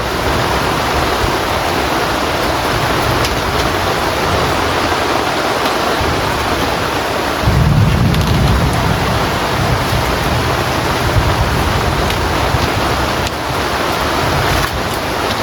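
Heavy rain falling steadily, with a low rumble of thunder rolling in about halfway through and carrying on.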